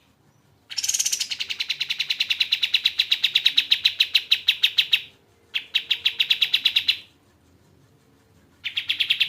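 Kapas tembak bird singing a fast rattling trill of rapidly repeated high notes, in three bursts: a long one of about four seconds, a shorter one, then a third starting near the end.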